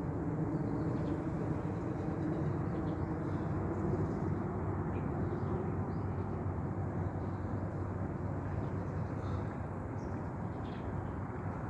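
Steady low outdoor background rumble, with faint, short bird chirps scattered through it.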